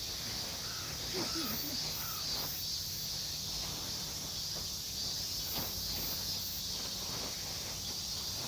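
A chorus of insects shrilling steadily and high-pitched, with a faint regular pulsing in the highest part, over a low steady rumble.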